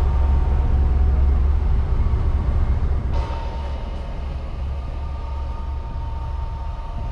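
Boat engine running with a steady low rumble and a thin steady whine. The sound changes abruptly about three seconds in and is a little quieter after.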